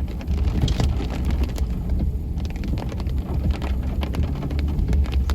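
Heavy rain hitting a car's roof and windshield as many sharp ticks, heard from inside the cabin over the steady low rumble of the car driving.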